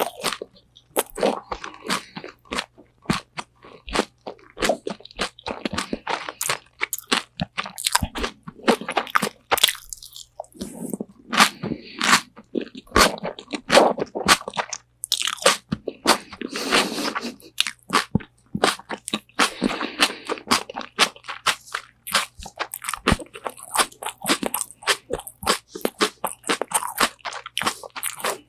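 Close-up biting and chewing of crispy Korean fried chicken wings, with sharp crunches of the fried coating and wet chewing, close to a binaural microphone.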